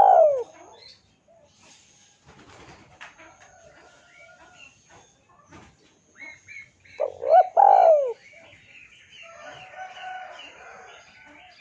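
Bird calls: a loud call of several notes gliding up and down ends just after the start, and another comes about seven seconds in. Softer chirping of other birds follows from about nine seconds.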